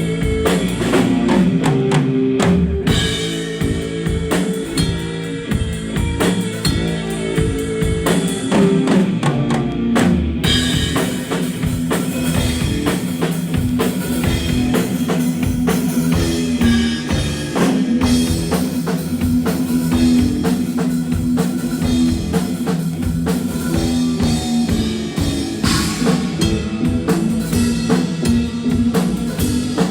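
Live band music driven by a drum kit, with steady bass drum and snare hits over a sustained bass line.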